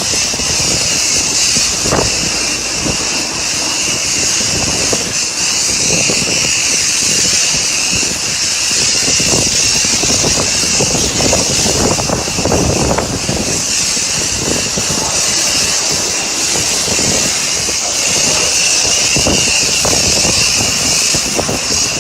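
Self-service car wash high-pressure wand spraying onto a car: a loud, steady hiss with splashing that varies as the spray moves over the body.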